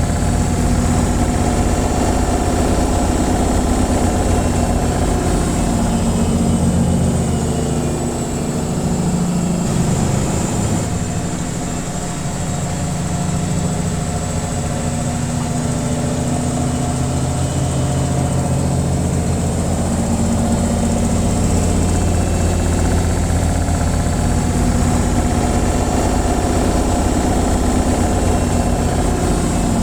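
Washing machine on its spin cycle, the drum and motor running fast with a steady low hum. About eight seconds in the hum dips a little and shifts in pitch, then settles back to steady.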